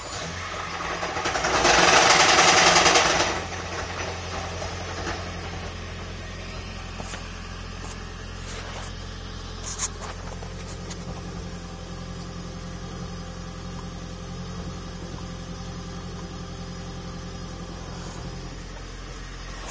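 Toyota Prius 1.8-litre four-cylinder petrol engine starting up and running, with a loud rattle for a couple of seconds right after it fires before it settles to a steady run. The engine makes a knocking, rattling noise.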